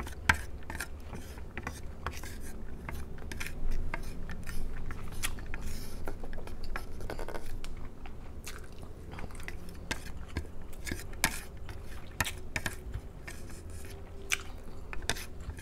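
Close-miked chewing of seafood, with many irregular wet clicks and crunches from the mouth.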